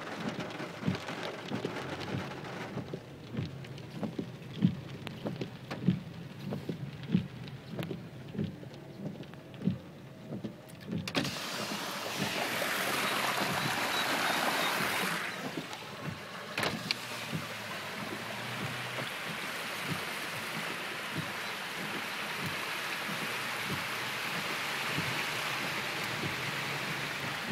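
Heavy rain and floodwater heard from inside a car. For the first ten seconds or so the windscreen wipers thump about once a second over the rain. Then a loud rush of floodwater pours over a drain for a few seconds, followed by a steady hiss of rain and water around the car.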